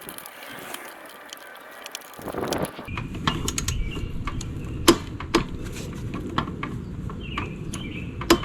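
Torque wrench ratcheting on the mower's blade bolt, with a few sharp clicks, the loudest about five seconds in, as the bolt is run down to 40 foot-pounds. From about two seconds in, a low rustling handling noise runs underneath.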